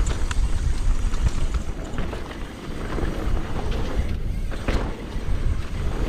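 Mountain bike riding down a bike-park trail: wind buffeting the microphone with a steady low rumble, and scattered clicks and knocks of the bike rattling over rough ground.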